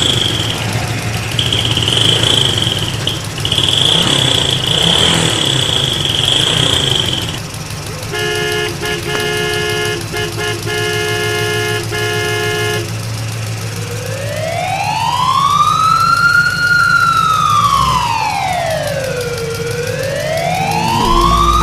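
Electronic sound effects of battery-powered toy vehicles: a high, steady beeping tone that breaks off a few times, then a burst of chord-like electronic tones pulsing on and off, then from about 14 s in a siren wailing slowly up and down.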